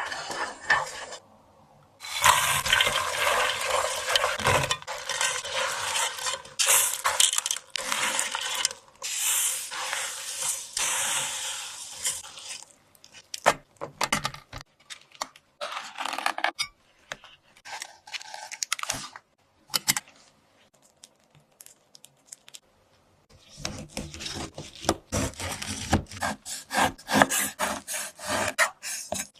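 Rubbing and scraping from food being prepared by hand, in two long stretches with a few scattered clicks between them.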